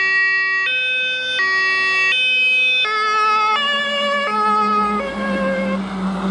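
German fire truck's two-tone siren alternating between a high and a low note, each held about 0.7 s; about three seconds in both notes drop in pitch as the truck passes, and the siren fades near the end, leaving the vehicle's rumble.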